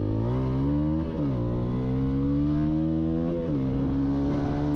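A motor vehicle engine accelerating through the gears. Its pitch rises, drops at a gear change about a second in, rises again, drops at a second gear change about three and a half seconds in, then holds steady.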